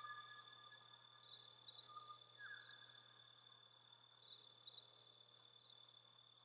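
Cricket chirping steadily, short pulsed chirps repeating about three times a second over a continuous high insect trill. A faint falling whistle sounds about two and a half seconds in.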